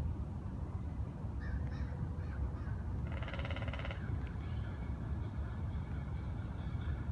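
A bird gives one harsh, raspy call about three seconds in, lasting about a second, with fainter chirps and a thin high note from other birds around it. A steady low rumble runs underneath.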